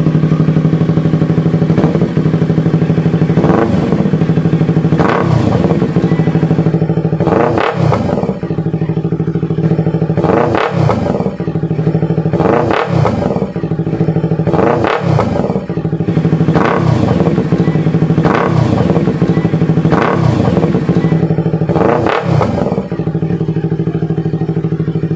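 Yamaha R3's 321 cc parallel-twin engine running through an aftermarket slip-on exhaust, idling with repeated short throttle blips, about one every two seconds.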